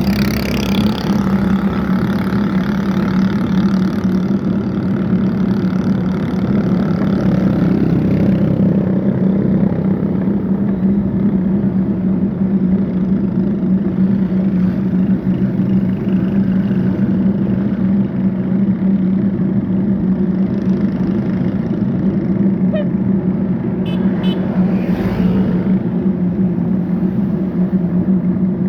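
Steady vehicle and road noise heard from a moving bike: a constant low hum with traffic around it, and a short louder passing sound about 24 seconds in.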